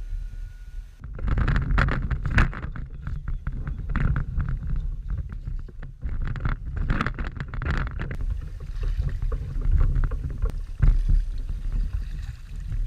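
Water splashing irregularly around a fishing kayak, with strong wind buffeting the microphone throughout.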